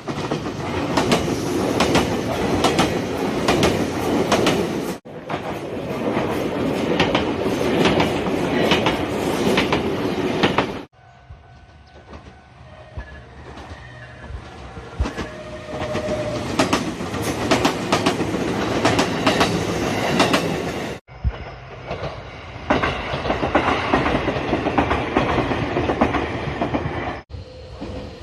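Nagano Electric Railway express train running on the rails, with a loud rumble and wheels clacking over the rail joints. Several separate recordings follow one another with abrupt cuts, one stretch in the middle quieter with a few steady tones.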